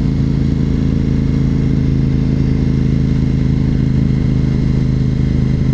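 A 2004 Honda RC51 SP2's V-twin engine running at a steady, unchanging pitch.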